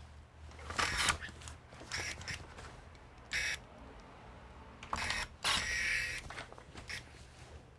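Irregular short bursts of clicking and scraping from computer parts being handled during reassembly, with the longest burst lasting most of a second about two-thirds of the way in.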